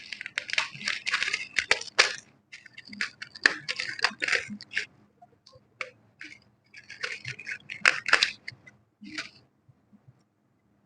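Close-up crackling and scraping noises in irregular bursts, full of small sharp clicks, with short pauses between them and fading out shortly before the end.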